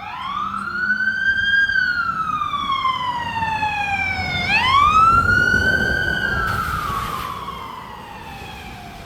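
Emergency vehicle siren on a slow wail, rising and falling in pitch twice, as the vehicle drives past fast with road noise. Loudest about halfway through, then fading as it moves away.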